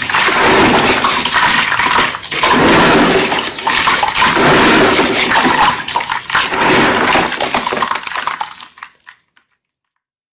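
Wet white gym chalk being crushed and squeezed, a loud wet crunching and squishing in repeated surges. It fades out and stops about nine seconds in.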